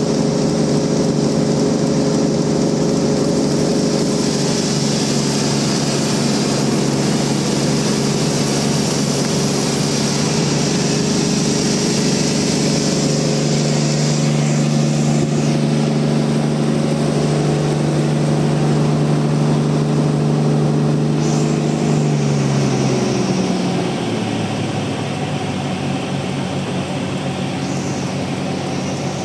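Band sawmill running steadily with a hissing cut noise over its motor hum. About 23 seconds in, the motor's pitch falls and the sound gets a little quieter.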